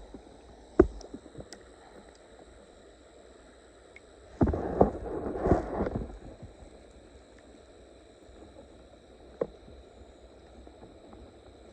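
Muffled rubbing and knocking of a camera carried in a trouser pocket: a sharp knock about a second in, a burst of fabric scraping around the middle, and a single click near the end, over a faint steady high tone.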